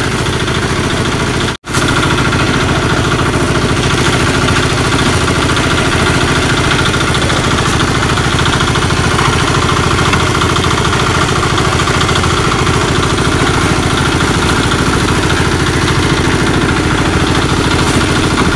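A motor engine running steadily at a constant speed, with one very brief break in the sound about a second and a half in.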